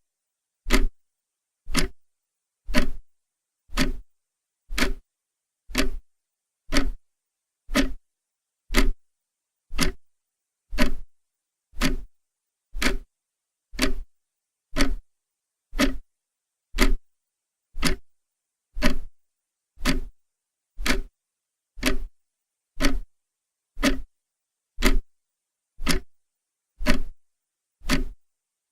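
Clock ticking steadily, one sharp tick about every second, with silence between ticks.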